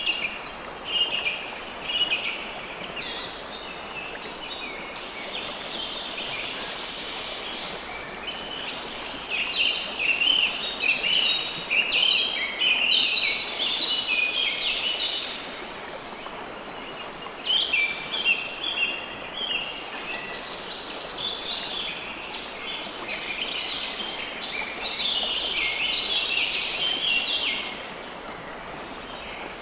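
River water flowing steadily under many birds chirping, their quick high chirps coming in dense flurries that thin out and pick up again.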